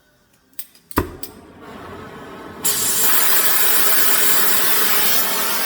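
Oxy-acetylene torch being lit and opened up: a few sharp clicks with a loud pop about a second in, a growing hiss, then a sudden jump to a loud, steady hiss of the flame about two and a half seconds in.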